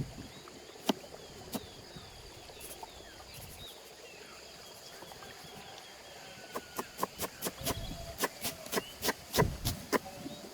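A knife chopping on a cutting board: a few separate taps at first, then a quick run of about three or four chops a second in the second half, some landing with a heavier thump. Birds chirp and insects keep up a steady high drone behind it.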